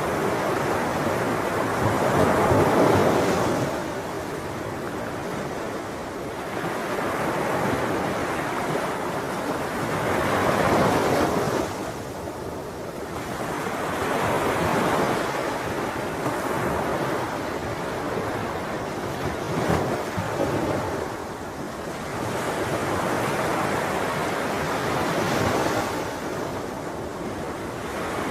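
Ocean waves breaking on a shore, a steady wash that swells and ebbs every few seconds, with some wind noise on the microphone.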